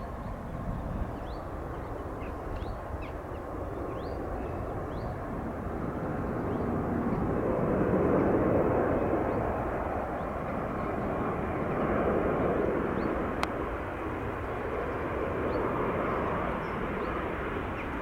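Airliner passing low overhead on its approach to land, its engine rumble building to a peak about eight seconds in, then swelling and easing as it goes by. A few faint bird chirps can be heard early on.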